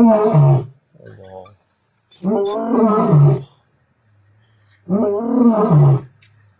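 Lion roaring in a series: three long roars about two and a half seconds apart, each dropping in pitch at its end, with a short grunt after the first.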